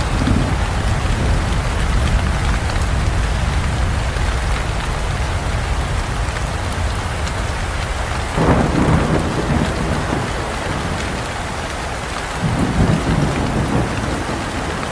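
Heavy rain falling with thunder rumbling low throughout; the storm swells louder twice, about eight and a half and twelve and a half seconds in.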